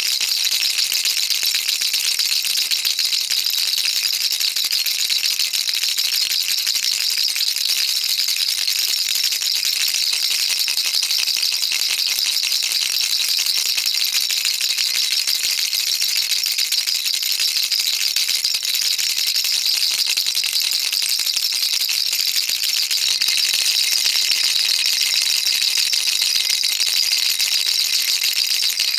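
Baby rattle shaken continuously, a steady, unbroken high-pitched rattling with no pauses.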